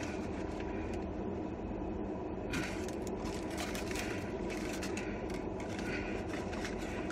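Chewing and mouth sounds of someone eating a steak sandwich, with a few small clicks, over a steady low hum in a car cabin.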